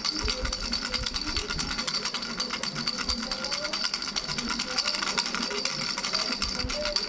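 A baby's three-bell rattle shaken quickly and without a break: small bells jingling in a dense rattle over a steady high ring.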